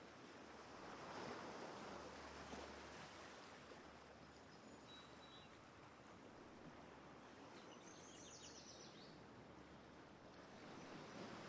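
Faint ocean surf, a soft wash of sea noise that swells and eases, with a few faint high bird chirps near the middle and a short quick twitter about two-thirds of the way through.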